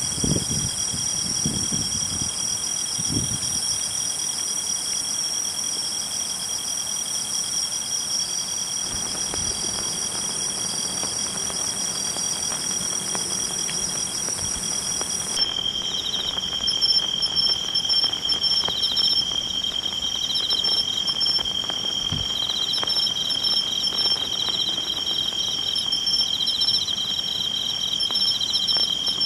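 Several insects such as crickets singing together in steady, high-pitched pulsing trills at different pitches. The highest-pitched trill cuts off suddenly about halfway through while the others carry on.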